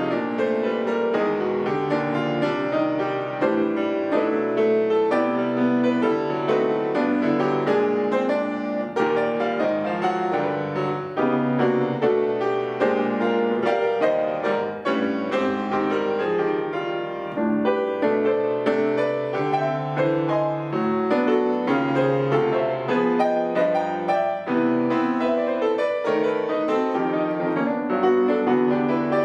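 Solo piano playing continuously: a steady flow of chords and melody notes, one struck after another without pause.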